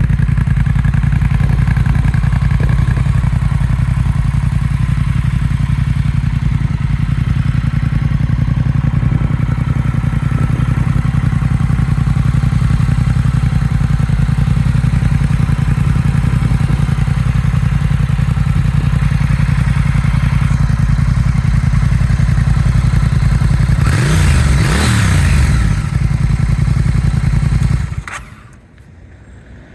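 Triumph Speed Twin 1200's parallel-twin engine idling steadily through louder aftermarket silencers with their baffles fitted. The engine is revved once about three-quarters of the way through, rising and falling in pitch, and stops suddenly near the end.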